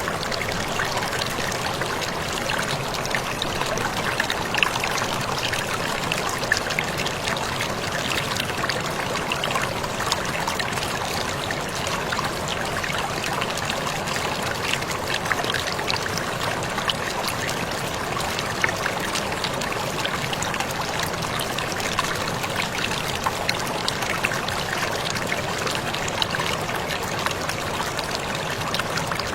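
Waterfall splashing steadily: a continuous rush of falling water, scattered through with many small splashes and drips.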